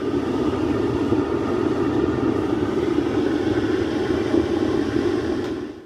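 An old vacuum cleaner used as the air blower for a home-made forced-air gas burner, running with a loud, steady rushing hum. It cuts off suddenly near the end.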